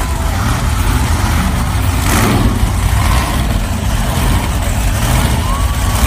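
Monster truck engine running loud, a deep steady rumble with a broad roar of exhaust noise over it.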